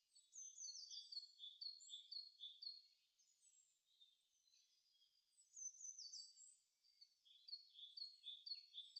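Near silence with faint bird chirps: short downward-sliding notes repeated about two to three a second, in a run over the first few seconds and again in the last few.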